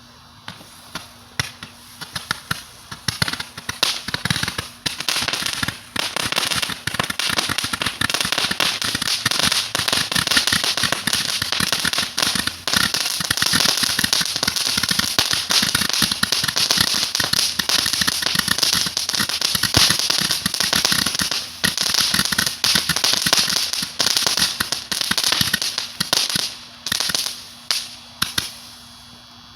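Red Apple 'Gumball' 280-shot barrage firework firing: a few separate pops at first, building into a dense, rapid, continuous stream of shots with a hissing crackle, then thinning back to single pops that stop near the end.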